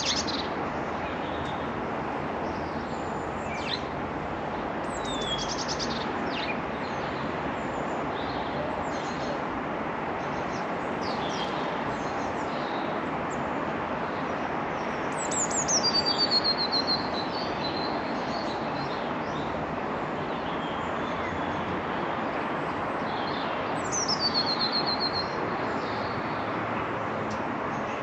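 Small garden songbirds calling and singing over a steady background hiss: scattered high chirps, and twice, about midway and again near the end, a high song phrase that falls in pitch and ends in a quick trill.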